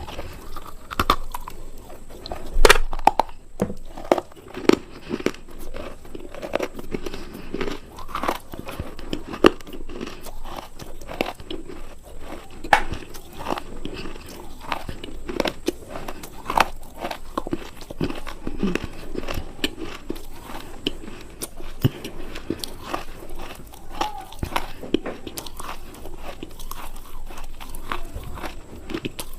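A person biting and chewing something hard and crunchy, with irregular crisp crunches coming several times a second and a few louder bites.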